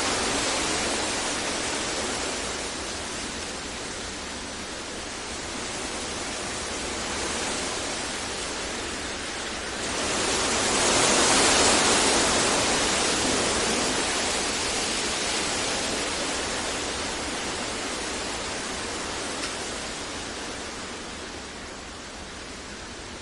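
Synthetic deep noise for sleep masking: a steady, even hiss-like wash with no tones or events. It swells about ten seconds in, then slowly fades.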